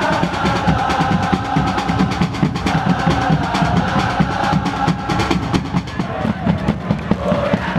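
A supporters' section beating drums in a fast, steady rhythm, with a mass of voices singing a chant over the drumming.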